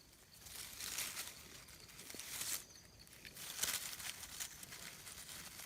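Dry leaf litter rustling and crunching in about three short separate bursts.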